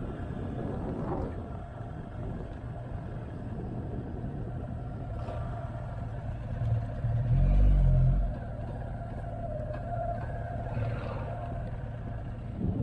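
Motorcycle engine running steadily during a ride, heard with road and wind noise. About seven seconds in there is a loud, low rumble that lasts about a second.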